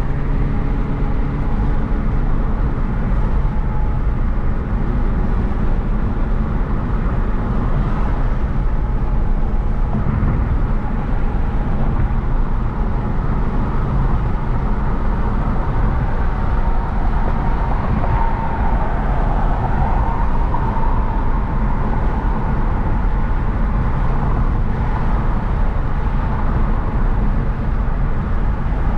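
Hyundai Genesis Coupe 3.8's V6 engine and tyres running steadily while driving, a continuous low rumble of engine and road noise.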